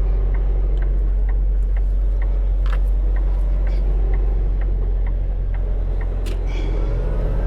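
Semi truck's diesel engine rumbling steadily inside the cab, with a turn signal clicking about twice a second.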